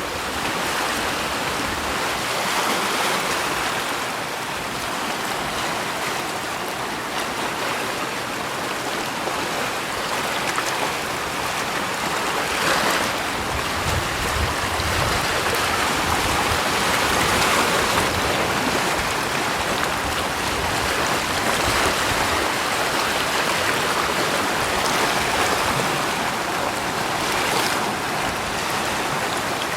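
Steady rushing water, a continuous hiss that swells and eases every few seconds.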